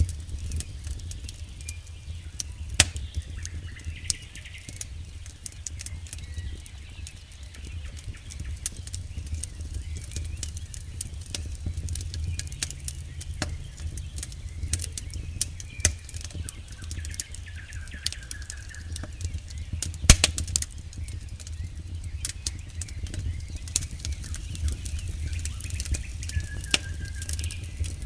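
Campfire crackling: burning wood with a steady low rumble and frequent sharp pops and snaps, two louder pops about three seconds in and near twenty seconds. Now and then there is a faint brief high whistle.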